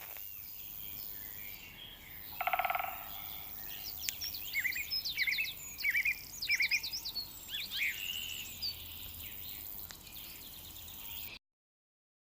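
Birds chirping in quick sweeping notes over a faint outdoor background hiss, with a short buzzy, rattling call about two seconds in. The sound cuts off suddenly near the end.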